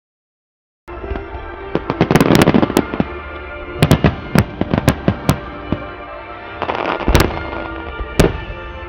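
Starmine firework shells bursting in clusters of sharp bangs over music from the venue's loudspeakers; the sound cuts in abruptly about a second in.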